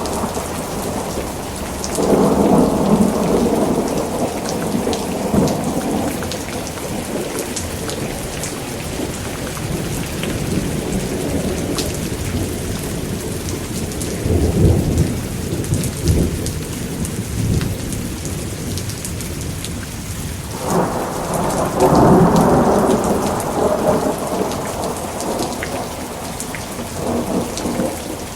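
Thunderstorm: steady pouring rain with thunder rumbling three times, first a few seconds in, again about halfway, and loudest about three quarters of the way through.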